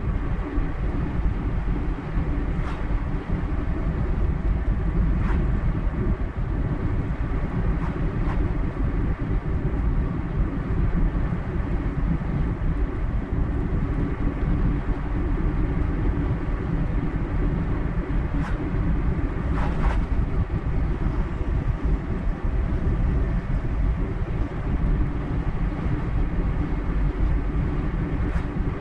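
Car driving on a highway at steady speed: continuous low road and engine rumble, with a few faint ticks scattered through.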